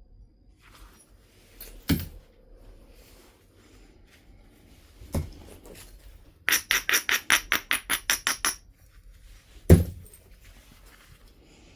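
Flintknapping: a flint nodule struck three times with a percussion tool, the strikes about three seconds apart. Between the second and third strikes comes a quick run of about sixteen short, clicking strokes, some eight a second.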